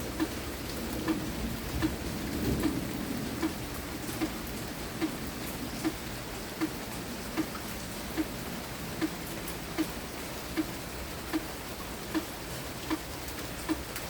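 Steady light rain falling, with a single drop landing at a very regular pace, about once every 0.8 seconds.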